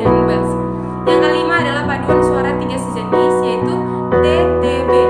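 Piano music: chords struck about once a second, each fading until the next.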